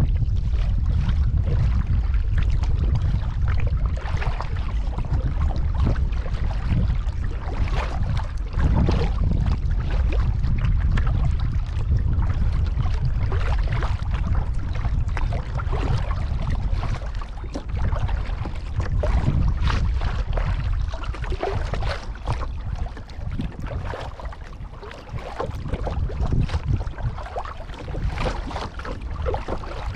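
Kayak paddling on a pond: irregular splashes and drips of water from the paddle, under a steady low rumble of wind on the microphone.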